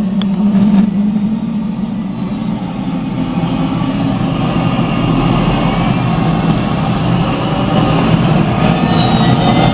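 Helicopter in flight: a steady, loud drone of turbine engine and rotor, with a higher whine slowly rising in pitch over the second half.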